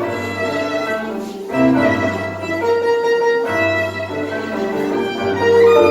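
Live tango music from a small ensemble: a violin leads the melody over piano, with long low notes held underneath. There is a brief break in the phrase about a second and a half in.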